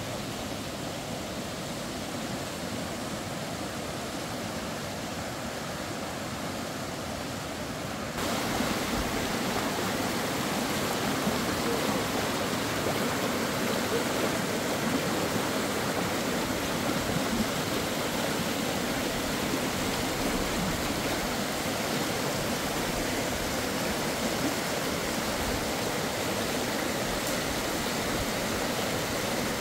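Steady rushing of flowing water, becoming suddenly louder and brighter about eight seconds in.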